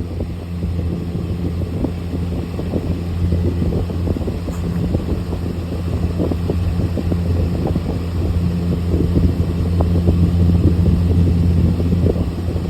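Cat purring, a steady low rumble that grows a little louder about nine seconds in.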